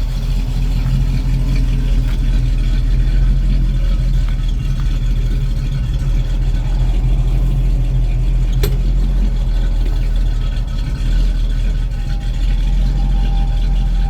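Car engine idling steadily, a low even hum, with a single sharp click about eight and a half seconds in.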